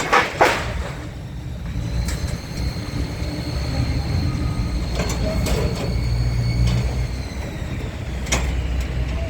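Scrap-handling claw machine working: its engine running low and steady under a thin steady whine, with several sharp metal clanks, the loudest just after the start.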